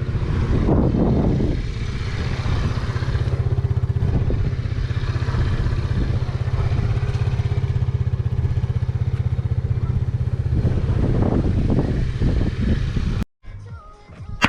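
A small motorbike engine running at a steady speed, swelling briefly near the start and again near the end, then cutting off suddenly.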